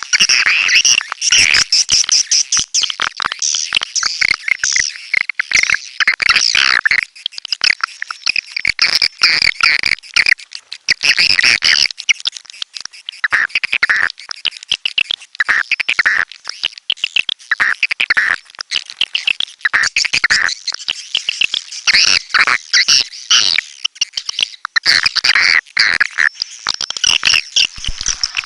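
Swiftlets calling: a dense, continuous chatter of high chirps and rapid clicking trills, with a brief lull about eleven seconds in.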